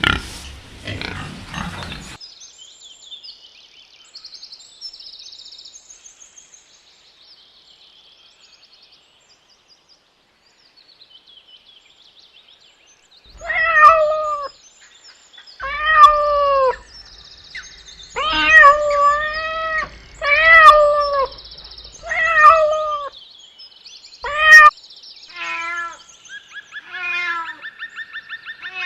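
A cat meowing repeatedly: about eight loud, arching meows in the second half, after a stretch of faint high chirping, with fainter, lower calls near the end.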